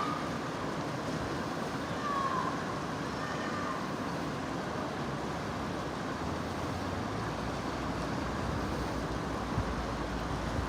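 Merced River rushing water: a steady, even rush, with a few short falling whistle-like tones about two seconds in and a low rumble joining from about seven seconds.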